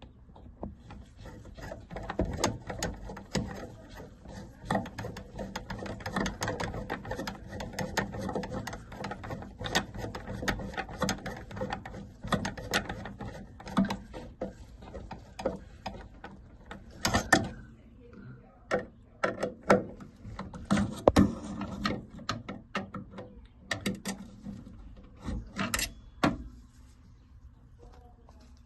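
Hand tools and metal fittings being worked on a gas boiler during a diverter valve change: a busy run of clicks, ratcheting and metallic knocks, with several louder knocks in the second half.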